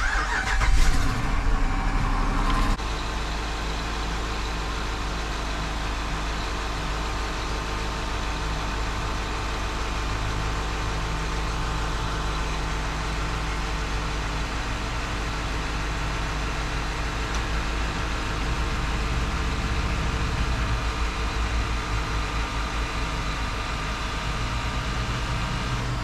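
The 2012 Jeep Grand Cherokee's 5.7 Hemi V8 starting: a loud crank-and-catch over the first two to three seconds, then a steady idle.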